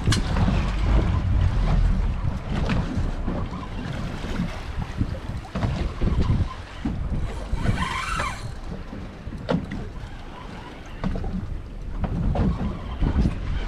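Wind buffeting the microphone aboard a small offshore fishing boat in rough water, with scattered knocks and one brief rushing splash a little past the middle.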